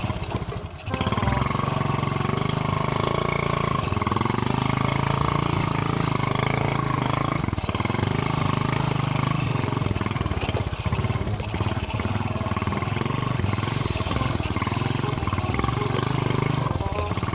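Motorcycle engine running at steady, fairly low revs while riding. It dips briefly about a second in, then picks up and holds an even note.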